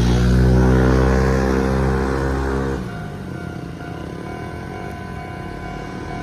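A Keikyu train passing the level crossing, its traction motors giving a loud whine that rises, holds steady and cuts off about three seconds in. The crossing's warning bell keeps ringing throughout.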